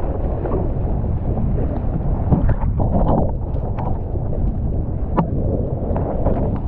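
Wind buffeting the microphone: a heavy, steady rumble with scattered crackles and knocks, a sharper knock about 2 seconds in and another about 5 seconds in.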